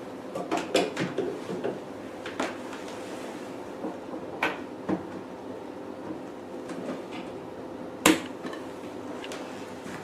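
Plastic handpiece of a facial beauty machine being handled and fitted into its holder, giving a series of light clicks and knocks, with the loudest sharp knock about 8 seconds in. A faint steady hum runs underneath.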